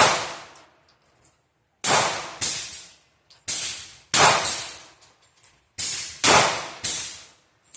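A handgun firing about nine shots at an uneven pace, some in quick pairs, each a sharp crack with a short ringing tail.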